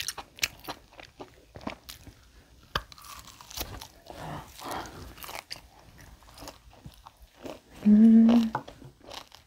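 Close-miked chewing and biting of tomahawk steak, with wet mouth clicks and smacks. About eight seconds in, a short hummed "mm" of enjoyment.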